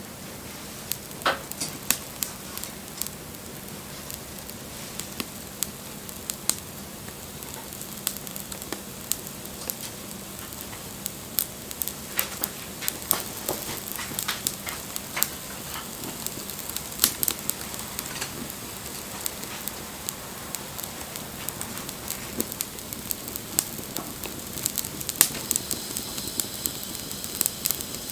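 Wood campfire crackling: irregular sharp pops and snaps from the burning wood over a steady soft hiss of flame.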